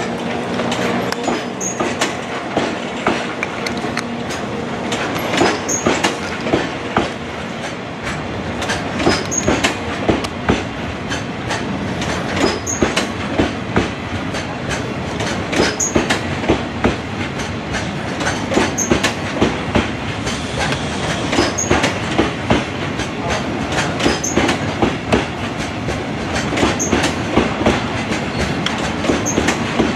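Freight train of coal wagons pulling away and gathering speed, its wheels rolling and clicking over rail joints in groups that come closer and closer together as the train accelerates. A steady hum is heard near the start.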